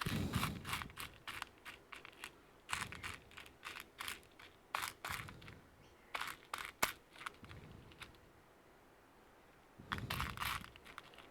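Hands working on a laptop's plastic casing and small parts: a run of short clicks, taps and crackly rustles, a quiet stretch of about two seconds, then another burst of rustling near the end.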